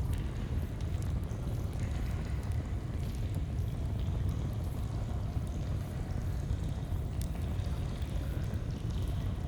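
Steady low rush of flowing stream water, with sparse faint crackles of a campfire scattered over it.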